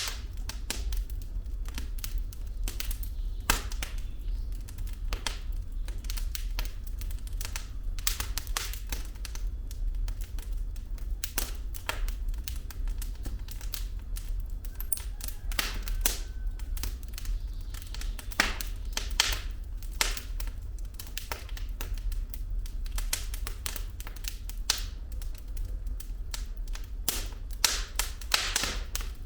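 Wood fire in a fireplace crackling, with irregular sharp snaps and pops of burning logs over a steady low rumble of the flames.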